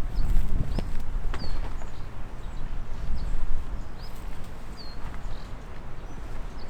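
Small birds chirping, short high calls repeated every half second or so, over a steady low rumble of wind on the microphone, with a few sharp clicks.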